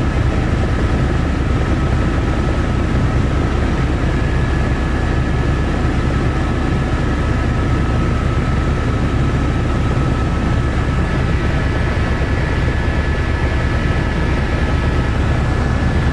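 Helicopter running steadily: a constant heavy low rotor and engine noise with a thin, steady high whine above it.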